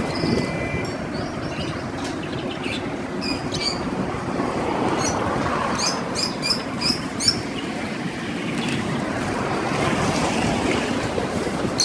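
Small birds chirping: a run of quick, high chirps about halfway through, over a steady background of street noise.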